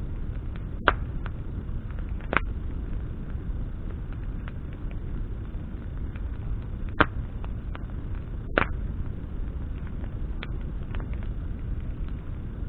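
Campfire of burning branches crackling: four sharp pops spread irregularly through, with fainter ticks between them, over a steady low rumble.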